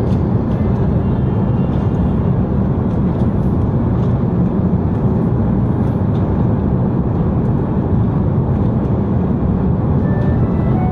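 Steady, loud cabin noise inside an Airbus A330-300 with Rolls-Royce Trent 700 engines: an even, deep rumble of engines and airflow with no sudden events.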